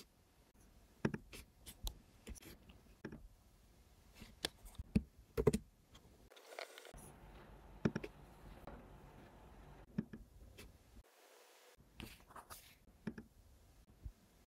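Faint, irregular clicks and taps at a computer desk, a dozen or so, spread unevenly over the quiet room tone.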